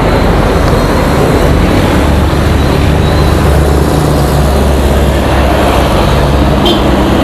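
A motor vehicle engine running steadily, with road traffic noise around it.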